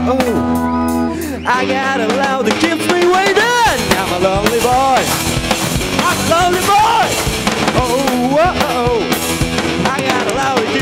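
Live rock band playing: a held chord gives way about a second and a half in to drums and a lead line of bending, wavering notes.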